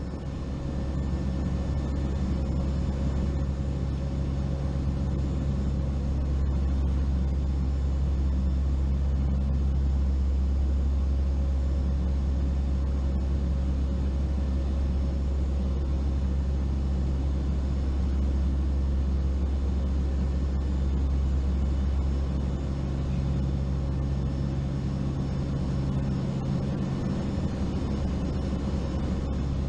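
Steady drone of a turboprop aircraft's engines and propellers heard inside the cabin, a low rumble with a constant hum, easing slightly about three quarters of the way through.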